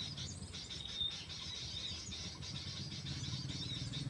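Small songbirds chirping and twittering, many short high calls one after another, over a steady low hum.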